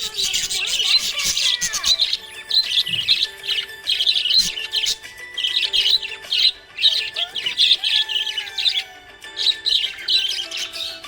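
Small pet parrots chirping in quick bursts of high-pitched chatter, about one burst a second, over background music with long held tones.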